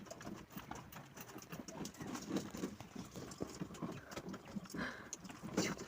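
Quail moving about on a hard surface: scattered light taps and clicks, irregular throughout.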